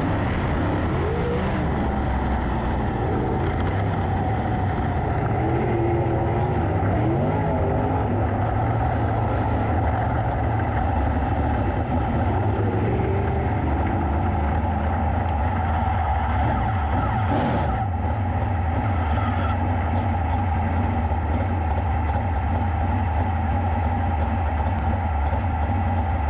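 410 sprint car engines running at racing speed, a steady sound with no let-up.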